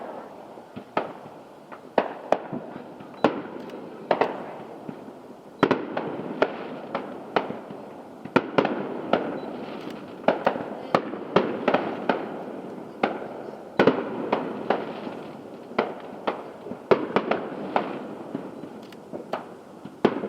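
Fireworks show heard from a distance: an irregular string of sharp bangs, several a second at the busiest moments, over a continuous rumble of overlapping, echoing reports.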